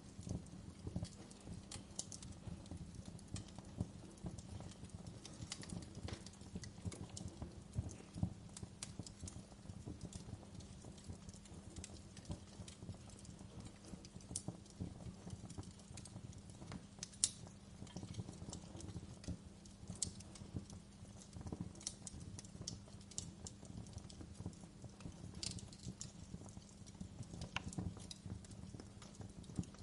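Wood fire in a fireplace crackling, with irregular sharp pops and snaps over a steady low rumble; one louder pop comes a little past halfway.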